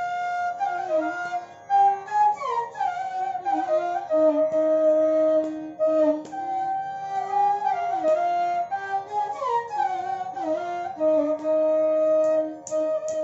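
Background music: a solo flute melody of held notes joined by sliding pitch ornaments.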